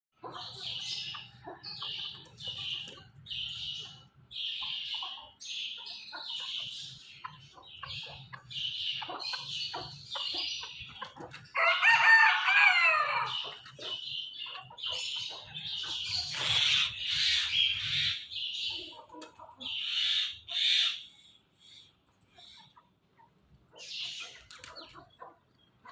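Chickens calling: a run of short, high calls repeated throughout, and one longer, louder call with a falling pitch about twelve seconds in that fits a rooster crowing.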